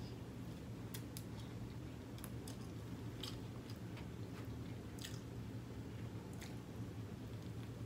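Close mouth sounds of chewing a mouthful of noodles, with scattered short wet clicks and smacks, over a steady low hum.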